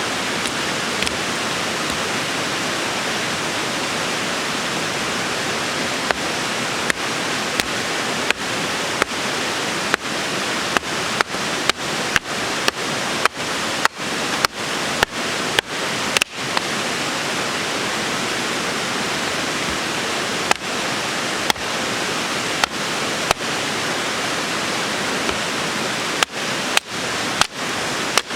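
Mountain stream rushing steadily. From about six seconds in, a string of sharp clicks cuts through it, roughly one a second, most of them between ten and sixteen seconds in and another few near the end.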